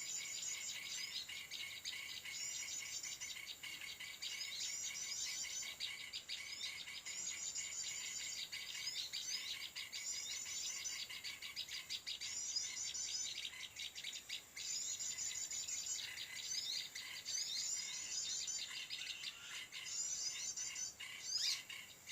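Short, high chattering bird calls repeated about every second or two over a steady, shrill insect drone.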